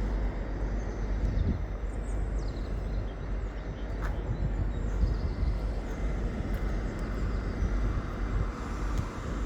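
Steady low rumble of idling diesel trains in a station, with a couple of faint knocks and thin high squeals.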